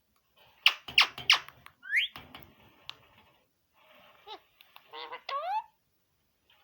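Green parrot calling: three sharp, loud screeches about a second in, a rising call at about two seconds, and a quick run of short rising calls near the end.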